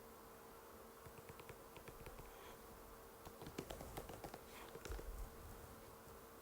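Typing on an Apple MacBook butterfly keyboard: a run of light, irregular key clicks starting about a second in and stopping near the end, over a steady faint hum.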